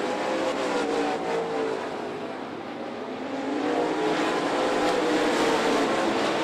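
Dirt late model race cars' V8 engines running at speed around the track. The sound fades a little about two seconds in, then swells again from about four seconds in as the cars come back around.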